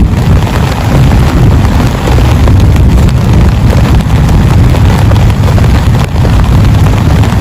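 Heavy rain pouring down, loud and steady throughout, with a heavy low rumble under the hiss of the drops.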